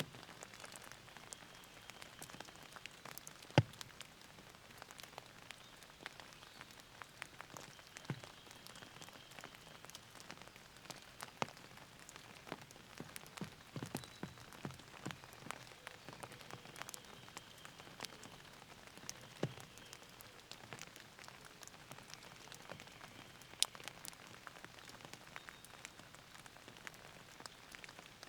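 Steady rainfall hissing, with many individual raindrops striking close by as sharp taps. Two louder drops land a few seconds in and about two-thirds of the way through.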